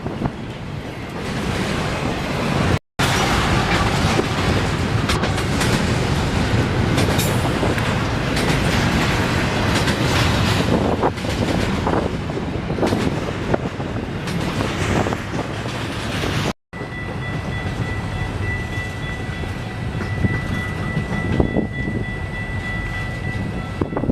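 A train passing close by, its wheels clattering over the rail joints. The sound drops out abruptly twice, and after the second break a steady high whine runs along with the train noise.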